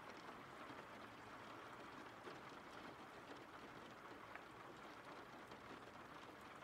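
Faint, steady rain with scattered drop ticks.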